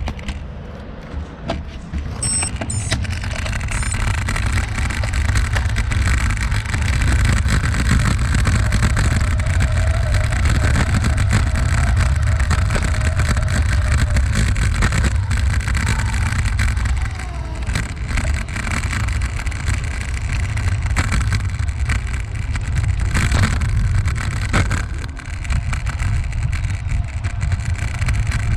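Continuous low wind rumble on the microphone mixed with rolling noise during a bicycle ride, with brief dips in level twice.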